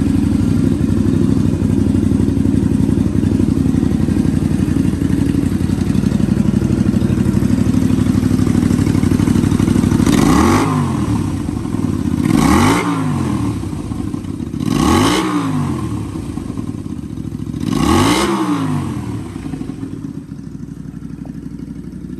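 Honda Magna 250 (MC29) V-twin with an aftermarket Daytona muffler idling steadily, then revved in four quick throttle blips about two to three seconds apart, each rising and falling back to idle. The idle is quieter after the last blip.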